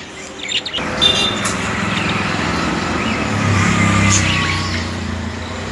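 Road traffic noise that starts abruptly about a second in, with the engine hum of a passing motor vehicle swelling near the middle.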